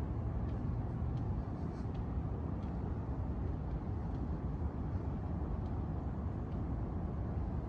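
Steady low rumble of city traffic, with faint soft ticks every second or so that fit footsteps on paving.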